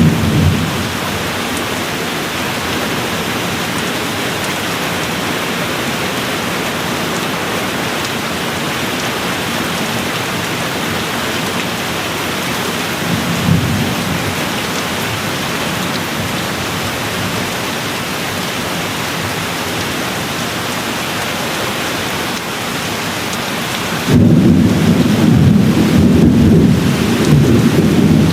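Steady rain falling, with rolls of distant thunder: a rumble fading out just after the start, a brief one about halfway, and a louder rolling rumble starting near the end.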